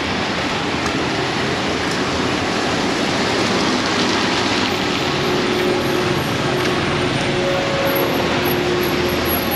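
Heavy tropical rain pouring down in a steady, dense hiss, with a faint hum joining in about halfway through.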